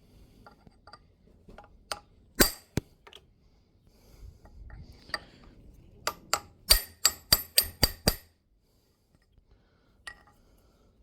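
Hammer blows on steel parts, each strike ringing: a few spaced taps, then a quick run of about eight blows, three or four a second, that stops abruptly.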